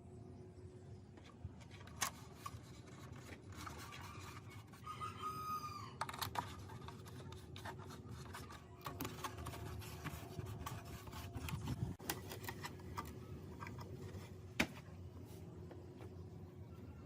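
Scattered clicks, taps and scrapes of hand work on metal parts over a faint steady hum, with a rooster crowing in the background about five seconds in.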